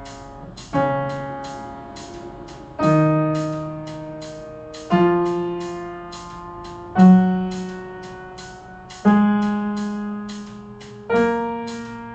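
Piano playing slow accompaniment to the D-flat major scale: six struck chords about two seconds apart, each ringing and fading, with the bass note stepping up each time.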